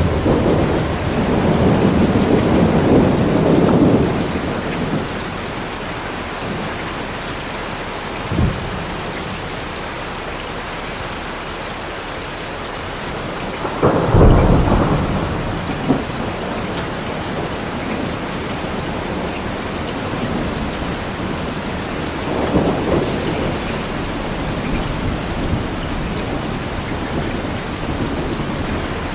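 Thunderstorm: steady rain falling throughout, with rolling thunder rumbles in the first few seconds, a short sharp crack about eight seconds in, a louder clap about fourteen seconds in, and further softer rumbles later on.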